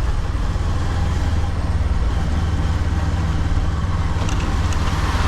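Motorcycle engine running steadily under way, a constant low rumble, with two faint clicks near the end.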